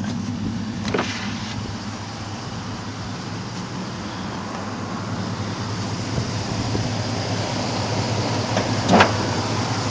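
Dodge Ram pickup's engine idling steadily, with two sharp knocks: one about a second in and one near the end.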